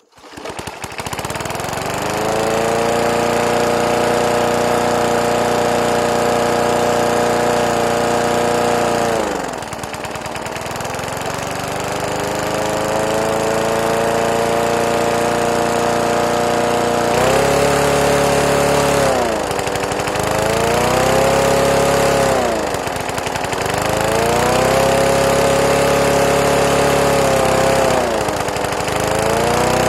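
3 hp Briggs & Stratton flathead single-cylinder lawn mower engine running at a steady speed, which sags and picks back up about a third of the way in and then several more times near the end.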